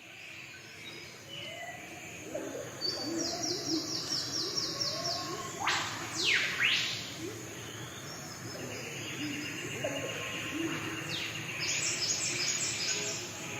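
Birds calling and chirping, fading in at the start: quick runs of high repeated notes and a few sharp sweeping calls near the middle, with softer calls beneath.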